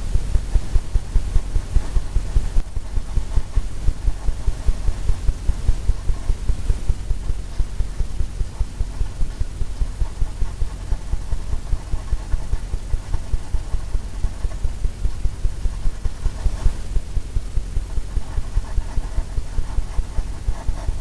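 A paintbrush tapping rapidly against a canvas to stipple oil paint into cloud layers, giving an even run of dull, low thuds, about three a second.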